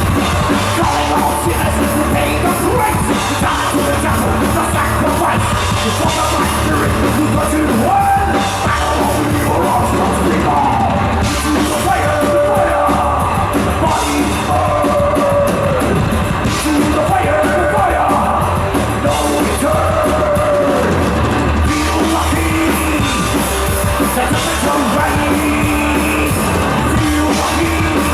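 Heavy metal band playing live and loud, with shouted, yelled singing over the band throughout.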